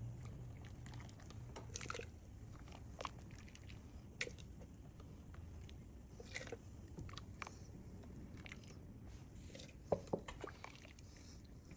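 Faint, scattered clicks and small knocks of a kitchen utensil working in a cooking pot as boiled onions are lifted out, at irregular intervals.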